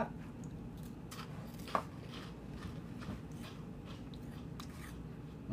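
A man chewing a baked corn-puff cheese snack, a TGI Fridays mozzarella stick: soft, light crunching, "cheese puff type crunchy" rather than hard. There is one sharper crunch a little under two seconds in.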